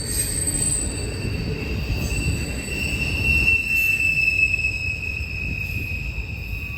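Freight train rolling past, its wheels squealing in several steady high tones over a continuous low rumble.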